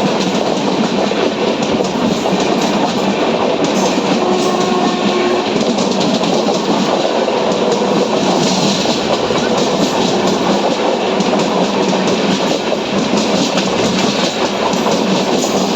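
Train passing close by, its wheels running over the rails in a loud, steady rumble and clatter.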